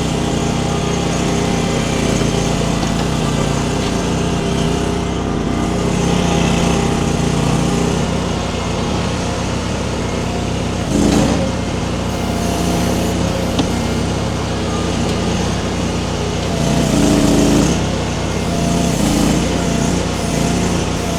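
Baumalight mini skid steer's engine running steadily as the machine works, swelling louder briefly twice, about halfway through and again near the end.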